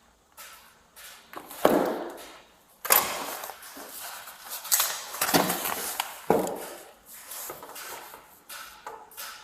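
A run of light knocks about two a second, broken by several loud, echoing clunks and bangs, as of doors and gear being handled in an enclosed garage.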